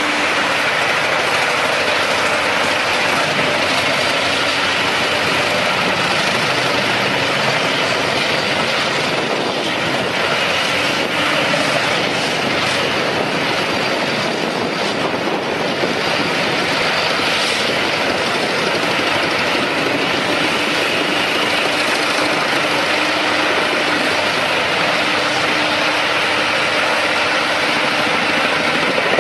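Wood chipper running steadily: a loud, dense mechanical noise, with a faint steady hum at the start and again in the last third.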